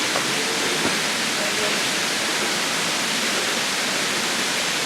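Steady rush of flowing water from a small waterfall and the stream below it.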